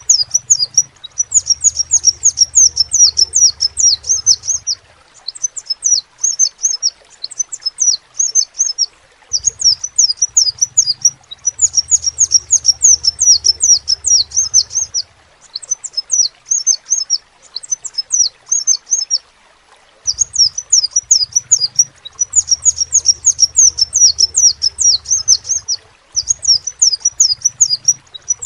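Crimson sunbird (kolibri sepah raja) singing: rapid, high-pitched chirping twitters delivered in phrases of a few seconds each, with brief pauses between them.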